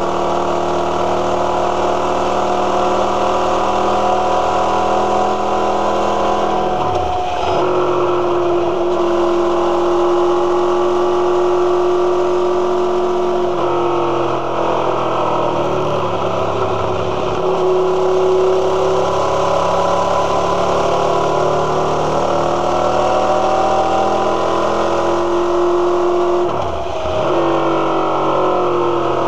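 Motorcycle engine running under way, its note rising and falling with the throttle over a steady rush of noise. The engine note dips briefly and sharply about seven seconds in and again near the end.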